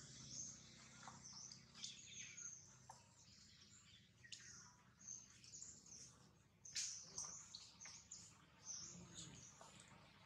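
Faint birds chirping in the forest: scattered short, high chirps over an otherwise near-silent background, a little busier just past the middle.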